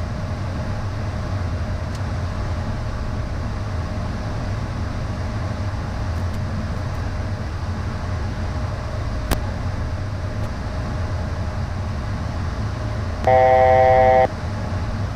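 Steady cockpit noise of a Beechcraft Premier I business jet in flight: a constant low hum of engines and airflow. A single sharp click about nine seconds in. A loud electronic tone lasting about a second near the end.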